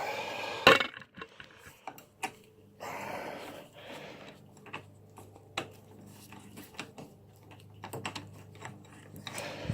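Scattered, irregular metal clicks and knocks from hand tools being handled on a motorcycle's clutch nut, with one sharp knock just under a second in and short bursts of hiss near the start and about three seconds in.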